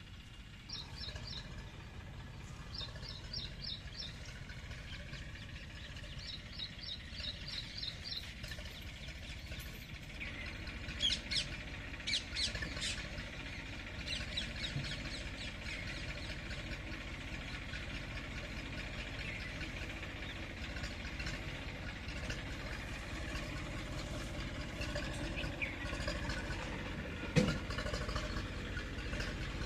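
Small birds chirping in quick runs of four or five high notes, over a steady low rumble. A few sharp clicks come about a third of the way in, and a single knock comes near the end.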